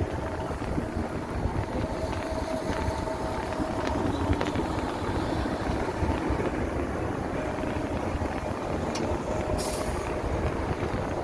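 Riding noise from an electric motorbike in traffic: wind buffeting the microphone and road noise, with a faint steady whine. A short hiss comes near the end.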